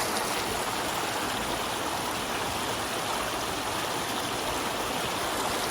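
Mountain creek rushing over rocks, a steady wash of flowing water.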